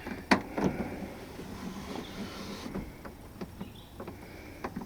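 A few short, sharp clicks and light knocks, the strongest about a third of a second in, over faint steady background noise: small parts and tools being handled while working on a truck door.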